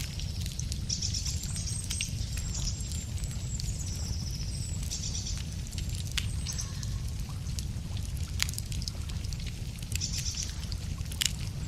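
Wood fire crackling, with sharp pops scattered irregularly over a low steady rumble. Small songbirds sing short high trills several times, most about a second in, around five seconds in and near the end.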